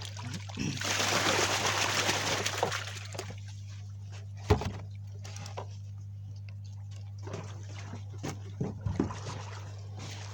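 Water splashing and sloshing for about two seconds, followed by scattered knocks and clicks with one sharp thump in the middle, over a steady low hum.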